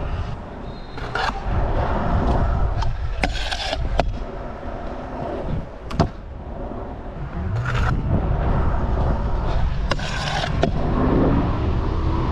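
Scooter wheels rolling over skatepark concrete with a steady rumble, broken by sharp clacks and knocks from the deck and short scrapes; the sharpest clack comes about halfway through.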